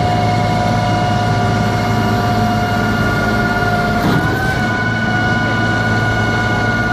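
Concrete pump truck's heavy engine running steadily under load, with a high, steady whine over a low hum; the whine dips and shifts in pitch briefly about four seconds in.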